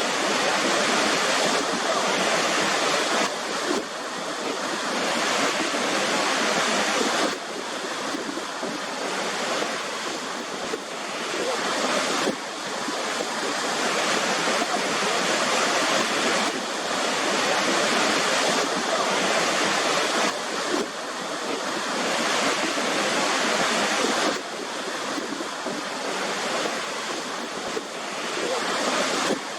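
Waterfall: a steady rush of falling water, with small sudden shifts in level every few seconds.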